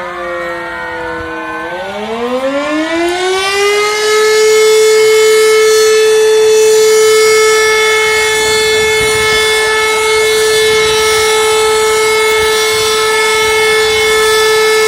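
Sirens sounding. For the first two seconds several overlapping tones slide down in pitch. Then one siren winds up over about two seconds to a steady, loud held tone.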